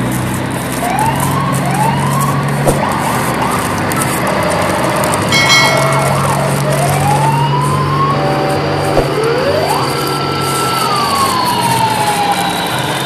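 Siren-like sound effects: short rising whoops, then a long wail that climbs, holds and falls away, over a steady low hum, with a brief multi-tone blast about five seconds in.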